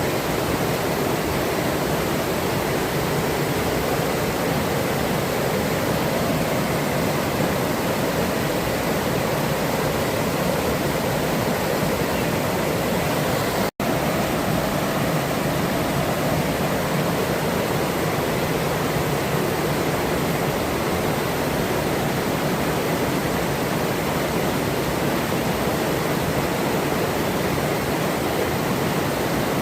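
River water rushing steadily over a forest streambed, a dense even wash of sound. It breaks off for an instant about halfway through.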